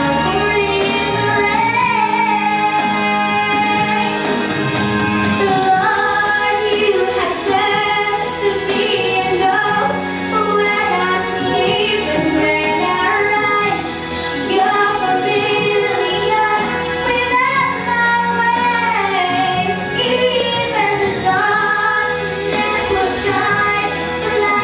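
Female voice singing a song over instrumental accompaniment, the melody rising and falling over steady held backing notes.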